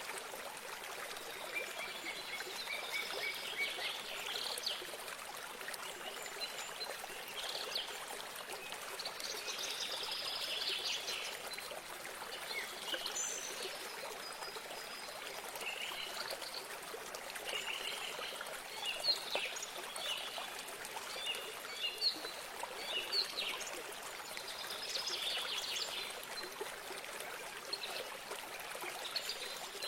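Running water trickling steadily, with many small birds chirping and trilling at intervals over it.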